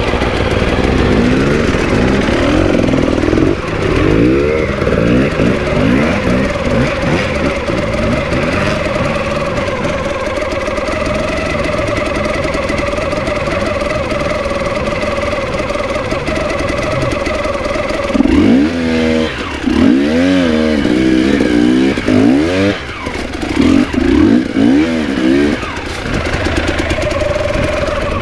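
Enduro dirt-bike engines running steadily, with bursts of rising and falling revs a few seconds in and again several times in quick succession past the middle.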